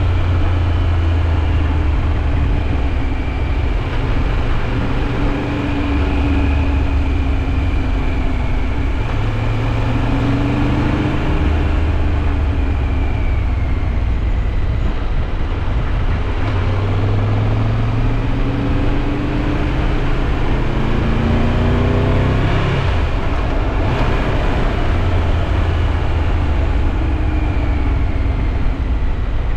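Triumph Tiger 1200 Rally Pro's three-cylinder engine running under way. Its pitch rises and falls repeatedly with throttle and gear changes, over a steady rush of wind and road noise.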